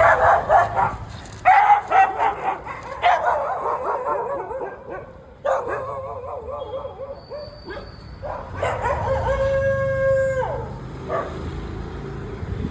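A dog barking several times in quick succession, then howling: a wavering howl midway and a long, held howl near the end that drops in pitch as it stops.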